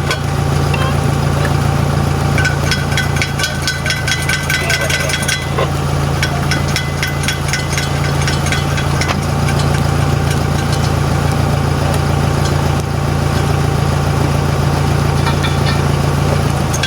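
Heavy diesel truck engine idling steadily, with scattered light clicks over it.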